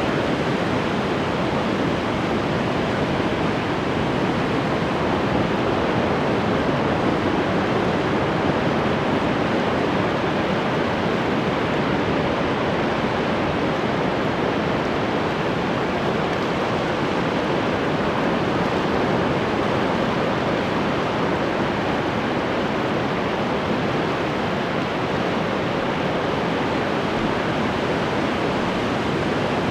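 Ocean waves breaking on the shore, a steady, continuous wash of surf with no distinct swells or lulls.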